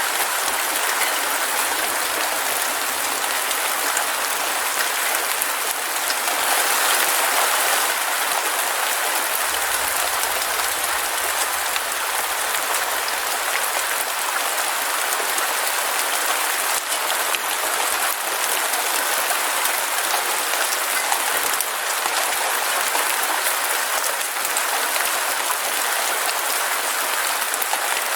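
Heavy rain falling steadily, an even, dense patter of countless drops, swelling slightly about six seconds in.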